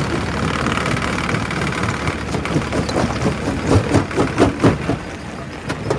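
Quarry primary rock crusher running steadily, with a quick series of sharp cracks and knocks from about two and a half seconds in as rock breaks in the crusher.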